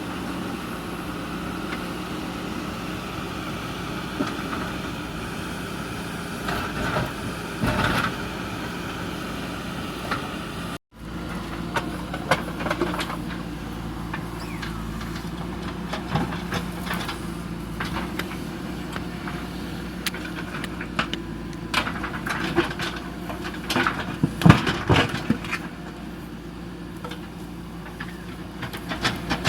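Backhoe loader's diesel engine running steadily, with scattered knocks and clanks that are loudest near the end. The sound drops out for a moment about a third of the way in.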